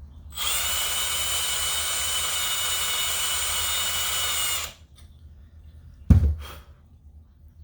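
Hand drill running steadily for about four seconds, its bit boring into the aluminium of a Zenoah engine's fan flywheel to take metal off the heavy side and balance it. A single thump follows about six seconds in.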